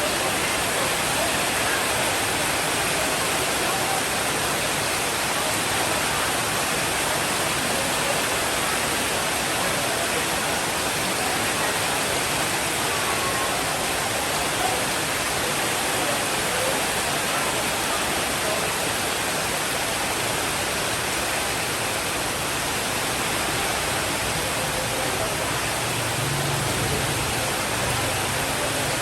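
Steady heavy rainfall, an even hiss at a constant level with no breaks.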